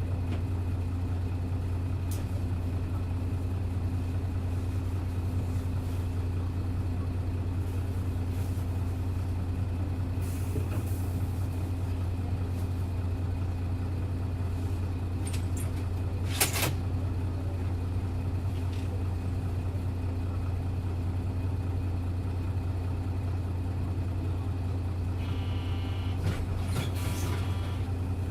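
Hino Blue Ribbon city bus's diesel engine running at an even, unchanging speed, heard inside the cabin. A sharp hiss-like click cuts in about halfway through, and a short run of repeated electronic tones sounds near the end.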